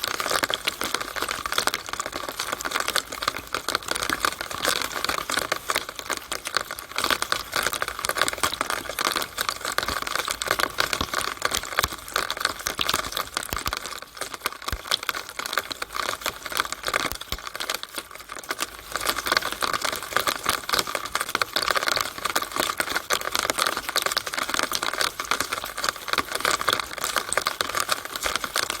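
Rainwater pattering and trickling through a downspout, a dense, fast patter of small drips and splashes that keeps up steadily, easing slightly in the middle.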